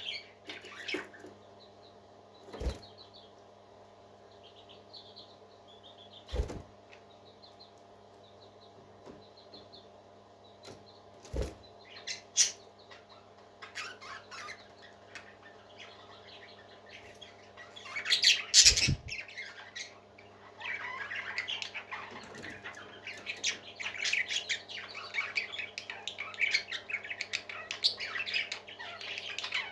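Pet parakeets chirping: scattered short calls at first, broken by four sharp thumps, then a busy continuous warbling chatter from about twenty seconds in. A steady low hum runs underneath.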